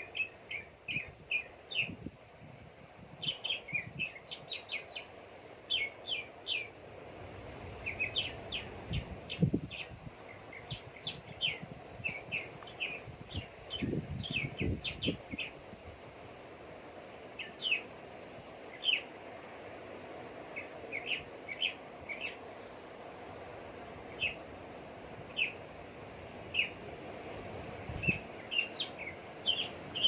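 Small birds chirping: short, high chirps in quick runs, over a steady background rush. There are a few low rumbles partway through.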